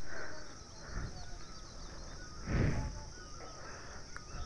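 Insects buzzing in a steady high-pitched chorus, with small birds chirping over it. A short whoosh of noise comes about two and a half seconds in.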